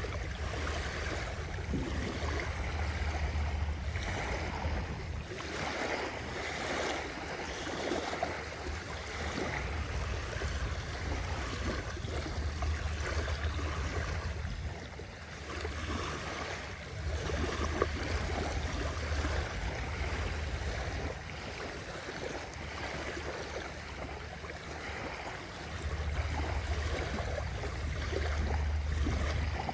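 Sea waves washing and lapping without a break. A low rumble swells and fades every few seconds.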